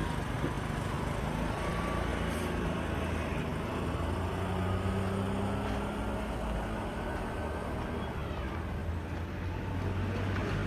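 Street traffic: motor vehicle engines running steadily, with a low rumble underneath.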